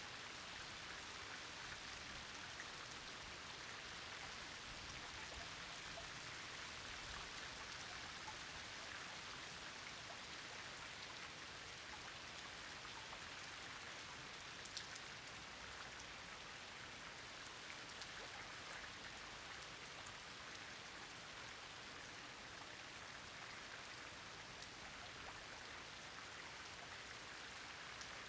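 Steady rain falling, with many individual drops ticking close by; one drop lands a little louder about halfway through.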